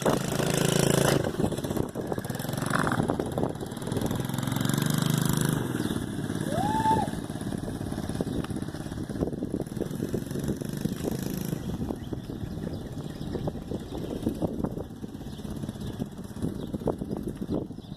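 Small dirt bike engine running, revved up twice in the first six seconds, then running lower and unevenly.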